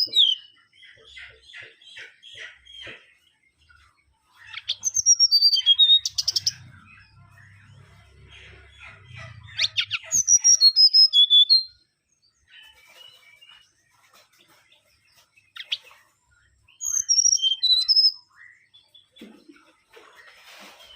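Mangrove whistler singing: loud whistled phrases of sliding high notes about 5, 10 and 17 seconds in, with runs of rapid ticking notes and quieter chattering between phrases.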